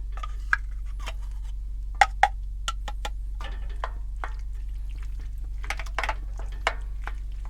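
A metal spoon clinking and scraping against metal cookware as ingredients are added to a Dutch oven, with scattered light ticks and two sharp ringing clinks about two seconds in. A steady low hum runs underneath.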